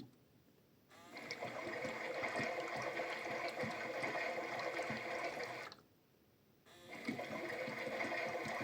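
A toy Bosch washing machine running its wash cycle: its small motor turning the drum with water sloshing inside. It stops for about a second at the start and again about six seconds in, then starts again each time.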